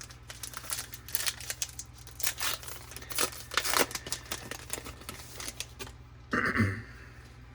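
Crinkling and tearing of a trading card pack wrapper as a new pack is ripped open, many sharp crackles in quick succession. A short louder sound comes near the end.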